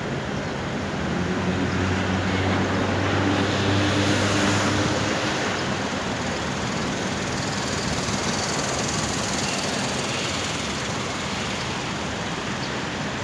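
Street traffic noise: a steady wash of road noise, with a vehicle engine hum that swells and passes, loudest about four seconds in.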